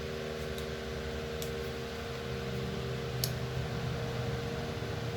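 Electric fan running with a steady hum, with a few faint light ticks over it.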